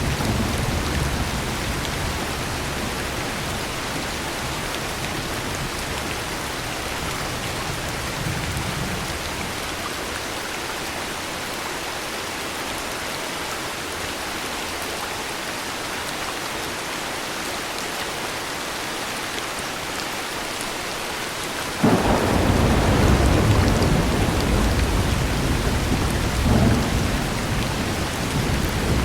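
Steady heavy rain, with low thunder rumbling away over the first several seconds. About two-thirds of the way through, a sudden thunderclap breaks in and rolls on for several seconds, with a second, smaller surge near the end.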